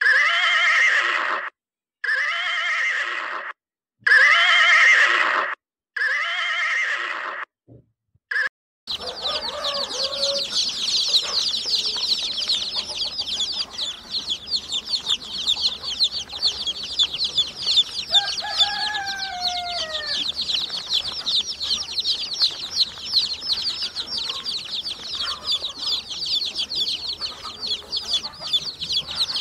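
A horse whinnies four times, each call about a second and a half long and falling in pitch. Then a large crowd of domestic chicks peeps without pause in a dense, high-pitched chorus.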